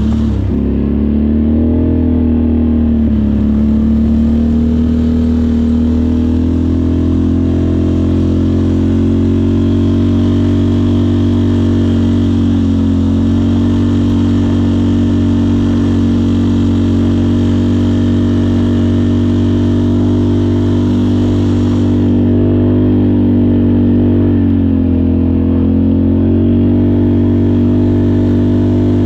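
Off-road vehicle engine running under steady throttle. Its pitch dips briefly and comes back up a few times as the throttle eases off and opens again.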